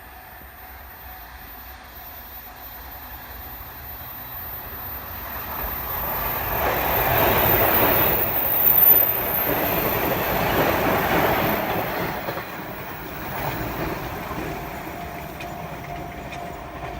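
JR 719 series electric multiple unit passing by on the rails, its sound growing louder to a peak about eight to nine seconds in, then fading away. It cuts off suddenly at the end.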